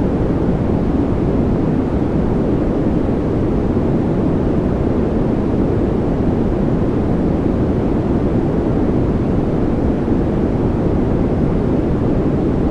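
Steady sleep-aid white noise: an even, unchanging rushing hiss, deep and rumbly with most of its weight in the low end.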